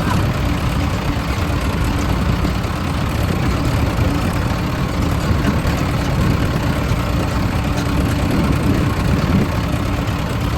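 Large diesel engine running steadily, with a constant low hum and no change in pace.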